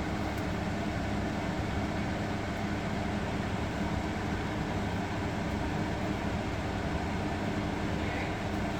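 A household window air conditioner running on its fan alone: a steady whir with a low hum. The compressor has not yet kicked on.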